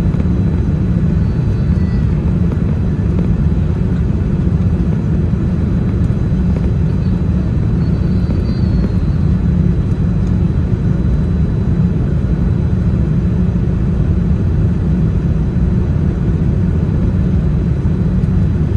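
Steady low rumble of a Boeing 787-10 airliner's engines and airflow in flight, an even drone with no rise or fall.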